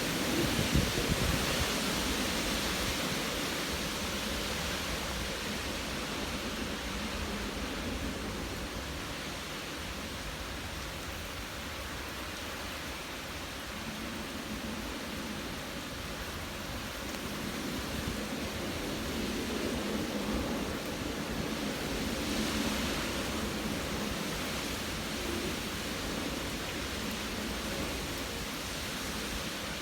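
Heavy typhoon rain with wind: a steady rushing hiss, with wind buffeting the microphone in the first second or so and a slight swell about twenty seconds in.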